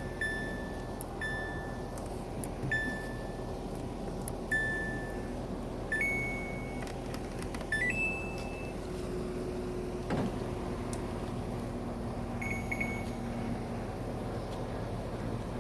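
Washing machine control panel beeping as programme settings are selected: short single beeps every second or so, then a few higher-pitched beeps further apart, over a low steady hum.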